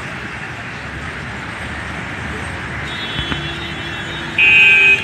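Steady street traffic noise, with a short, loud, high-pitched beep near the end.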